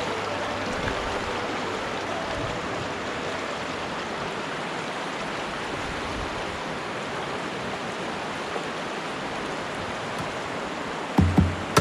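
Steady rush of the Virgin River's water flowing over rocks, with a couple of short thumps near the end.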